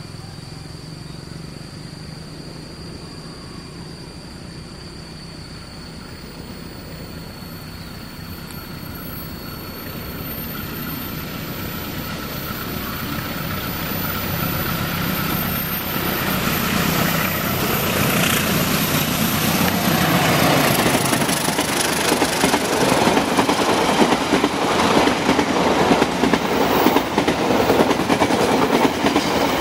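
A diesel-hauled passenger train approaching and passing close by. Its rumble grows steadily louder over the first half. From about twenty seconds in, the coaches' wheels clatter rhythmically over the rail joints.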